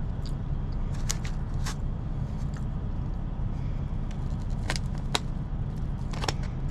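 Steady low hum of an idling engine, with a handful of short, sharp clicks and taps of a utensil against a food container during eating.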